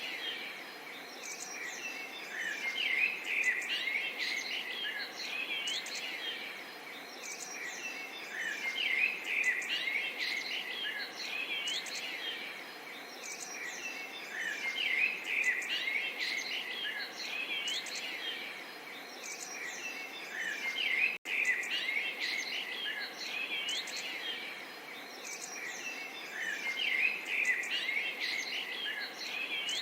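Small songbirds chirping and trilling continuously, many short rising and falling calls overlapping, over a soft steady babble of flowing water. The sound cuts out for an instant about two-thirds of the way through.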